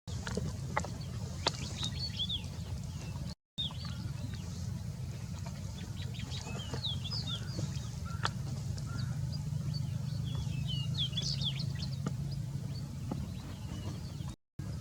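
Small birds chirping in clusters of short, high notes over a steady low hum, with two brief cuts to silence.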